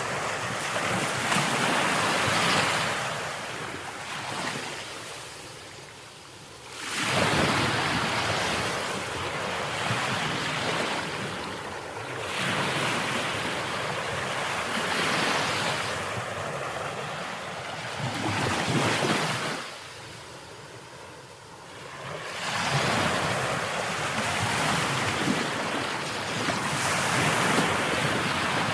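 Ocean waves breaking and washing in, swelling and ebbing every few seconds. Two sudden loud breaks come after quieter lulls, about seven seconds in and again about two-thirds through.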